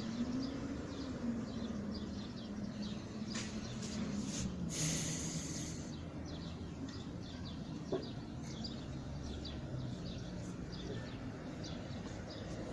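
Small birds chirping repeatedly, with a low wavering drone underneath and a brief hiss about five seconds in.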